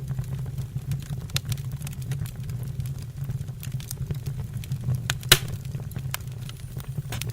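Wood fire burning in a fireplace: a steady low rumble with scattered sharp crackles and pops, one loud pop about five seconds in.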